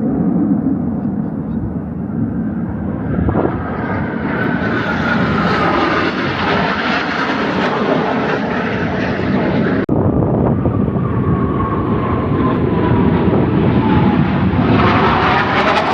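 Fixed-wing aircraft flying past, a loud steady engine noise with a whine that falls in pitch as it goes by. About ten seconds in the sound cuts to another pass with another falling whine, and the noise grows louder near the end.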